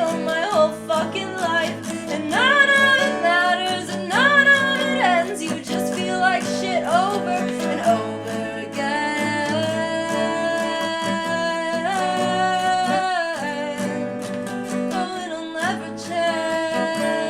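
Acoustic guitar playing under a singing voice, which moves through bending phrases in the first half and then holds long steady notes.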